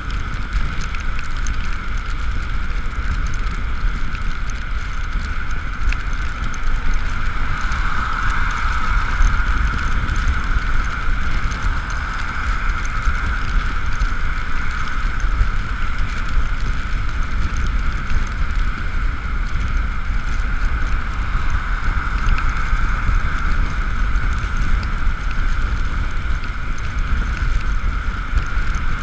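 Ekoway ML5000 electric scooter riding along: its motor's steady whine, which rises a little about a third of the way in and again later, over low wind rumble on the camera.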